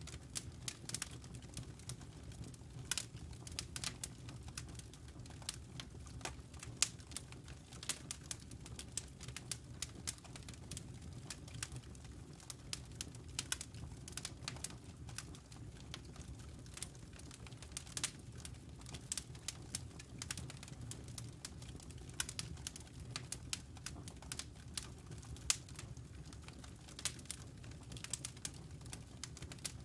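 Campfire crackling: irregular sharp pops and snaps from burning wood, several a second with a few louder ones, over a low steady rumble.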